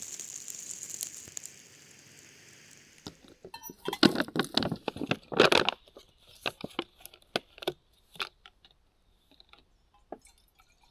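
Close crinkling and crunching rustles, like crinkly nylon or plastic being handled, starting about three seconds in and dying away into a few small clicks; a faint hiss before they begin.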